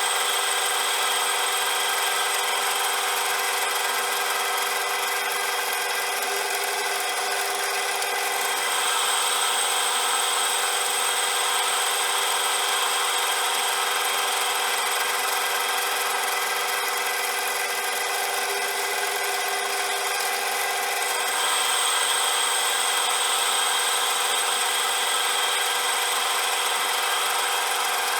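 CJM360 metal lathe running steadily with a constant whine while turning a shaft, a scraping cutting hiss over it. It grows a little louder and brighter about eight seconds in and again about twenty-one seconds in.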